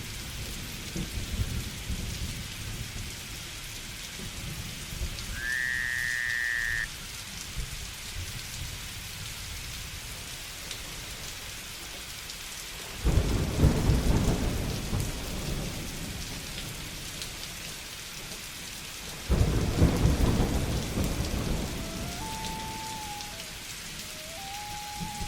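Steady rain falling, with two sudden low thunder rumbles, one about halfway through and another a few seconds later, each fading out over several seconds. A short whistled call sounds early on, and another high whistle is heard near the end.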